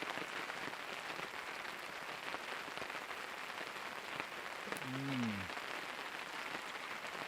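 Steady rain falling, an even hiss with scattered drop ticks. About five seconds in, a man gives one short hum that falls in pitch.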